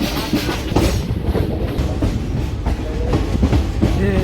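Passenger train running along the line, a steady rumble with the wheels clattering on the rails, heard from on board.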